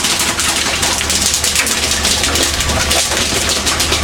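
Fishing boat under way: a steady low engine hum under a loud, dense hiss of wind and water.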